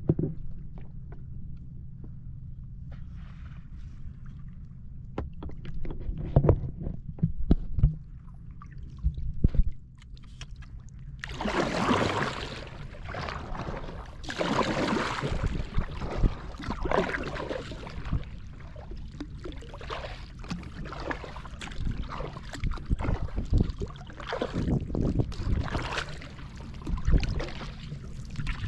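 Kayak paddling on the open sea: repeated splashing washes of water from the paddle strokes and the hull, loudest from about a third of the way in, over a steady low rumble. A few knocks come in the first several seconds.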